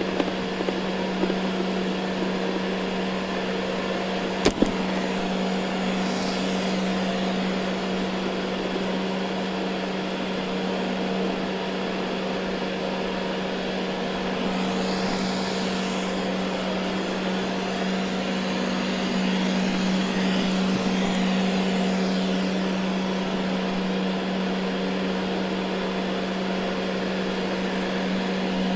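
Ecovacs Deebot N79 robot vacuum running over carpet: a steady motor hum with the hiss of suction and brushes, and one sharp click about four and a half seconds in.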